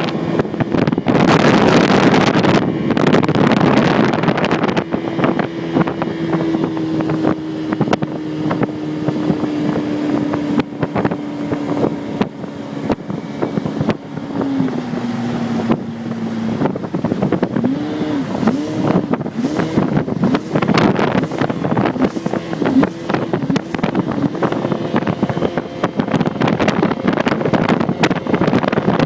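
A small speedboat's 85 hp motor running under way, with heavy wind on the microphone. The engine note holds steady, drops in pitch about halfway through, then rises and falls about once a second.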